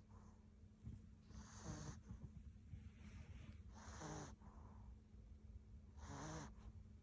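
Sleeping Maltipoo puppy snoring softly. A faint, wheezy snore with each breath comes about every two and a half seconds, three times.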